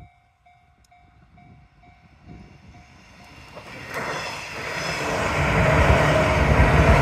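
Level-crossing warning bell dinging about twice a second. Then a JR 185 series electric train approaches and passes, its running noise swelling from about four seconds in and drowning out the bell.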